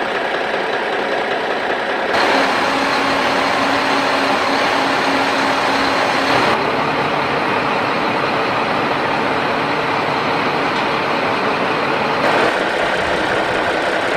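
Steady engine-like running noise. Its character changes abruptly about two seconds in, again about halfway through, and again about two seconds before the end.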